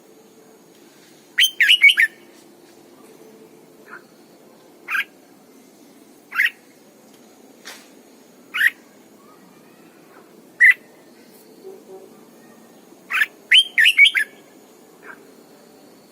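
Red-whiskered bulbul singing loud, clear whistled notes: a quick run of notes about a second and a half in, then single notes a second or two apart, and another quick run near the end.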